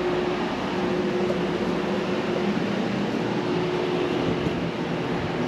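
Steady machine hum with one constant tone over an even rushing noise, like a fan or air-conditioning unit running.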